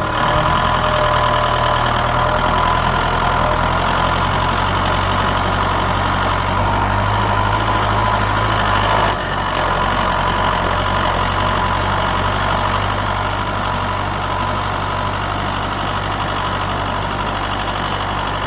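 Vehicle engine running steadily at idle, a low even rumble that drops slightly in level about nine seconds in.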